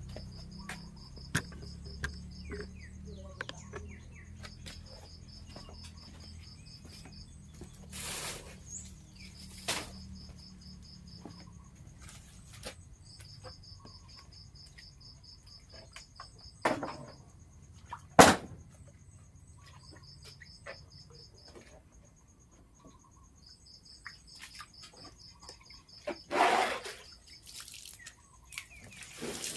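Insects trilling in repeated bouts of a few seconds each, with a faint steady high tone under them. Several sharp knocks break in, the loudest a little past the middle, and a short noisy burst of about a second comes near the end.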